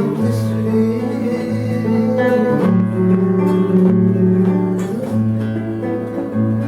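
Contreras M-1 studio classical guitar played solo: fingerpicked chords ring on over a bass note that changes about every second and a quarter.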